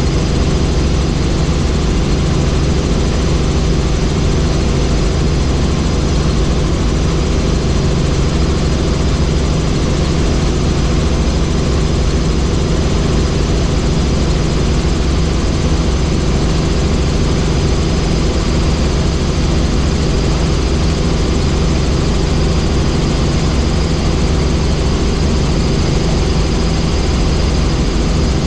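Helicopter in flight: the steady, loud drone of the engine and rotors, holding an even pitch throughout.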